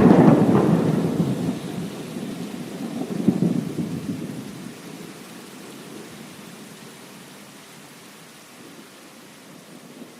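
A thunderclap cracks at the start and rumbles away, swelling again about three seconds in before fading, over steady heavy rain.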